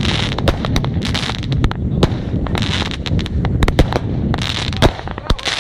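Aerial fireworks going off in rapid succession: many sharp bangs, with crackling from the glittering star bursts between them.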